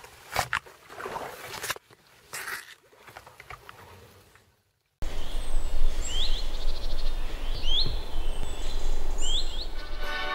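Outdoor ambience: a steady low rumble with a bird calling repeatedly in short upswept chirps, starting suddenly about five seconds in after a few seconds of faint sound.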